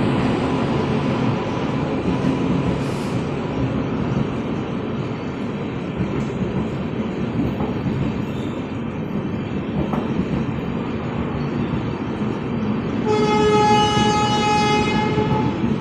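Rajdhani Express LHB passenger coaches rolling past, a steady rumble of wheels on the rails. About 13 seconds in, a train horn sounds one long, steady note for about two and a half seconds.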